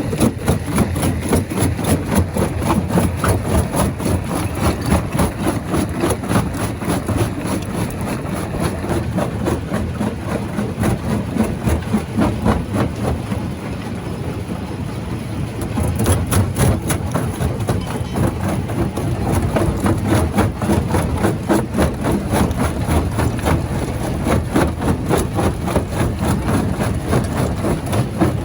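Rock crusher running under load: a low machine rumble with rapid, continuous knocking and clattering of rock being crushed. It eases for a few seconds about midway, then picks up again.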